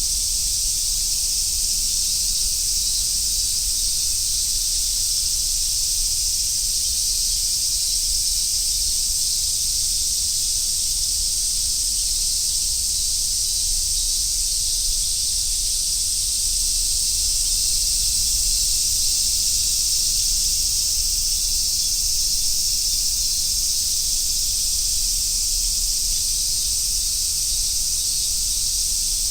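A chorus of summer cicadas shrilling continuously, a dense, steady high-pitched sizzle with no breaks.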